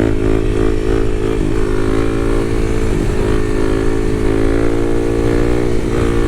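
Kawasaki KLX300's single-cylinder four-stroke engine running under steady throttle as the bike rides on, its pitch holding nearly even and creeping slowly upward, with brief small dips.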